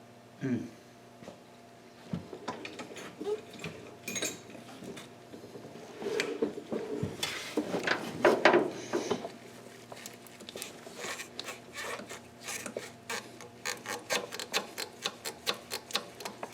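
Hand-tool and hose handling in an engine bay: rubbing and rattling of parts, loudest a little past the middle, then a run of short sharp clicks, about two or three a second.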